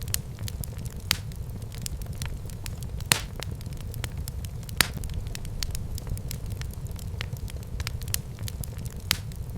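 Wood fire burning in a fireplace: a steady low rumble of flames with frequent sharp crackles and pops, a few of them louder, about 1, 3, 5 and 9 seconds in.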